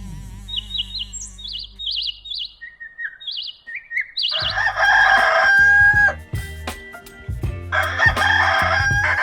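Short, high bird chirps repeated over the first four seconds, then a rooster crowing twice in long, held calls.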